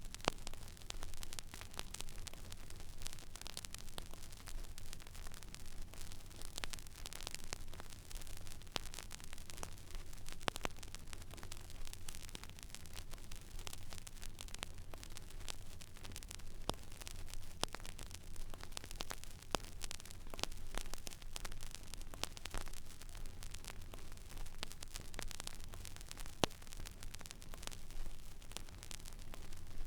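Stylus riding an empty vinyl record groove: steady surface hiss with a low hum underneath, broken by scattered crackles and pops at irregular moments.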